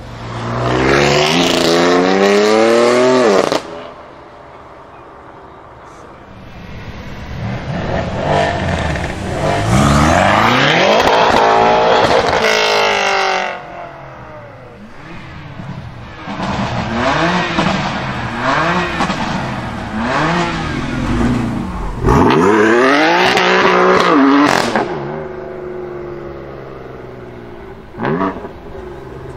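Several BMW M performance cars accelerating hard one after another, their engines revving up and rising in pitch, with quieter gaps between the passes. The first is a BMW M3 F80's twin-turbo straight-six pulling away hard.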